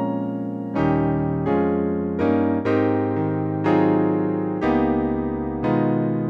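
Electric-piano sound from the MKSensation Xtreme iPad keyboard app, playing a slow run of sustained chords. The chords change about once a second, and each has a slight wavering shimmer.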